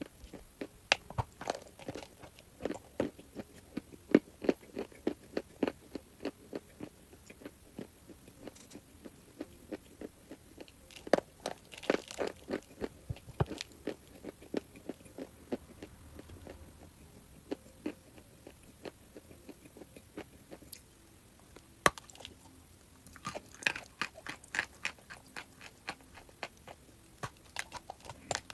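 Crunchy chalk being bitten and chewed close to the microphone: runs of crisp crunches, with a sparser stretch of only a few clicks in the middle.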